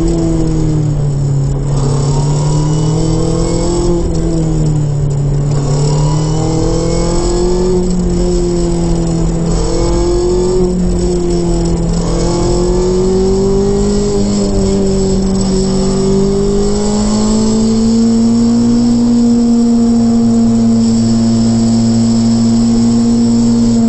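Modified Mazda MX-5 ND 2.0 four-cylinder with a custom 4-1 exhaust manifold and Cobalt muffler, driven hard in second gear, heard from the open-top cockpit. Engine speed rises and falls gently with the throttle, with no gear change, then climbs and holds at a higher, steadier pitch for the last several seconds, over a constant rush of wind and road noise.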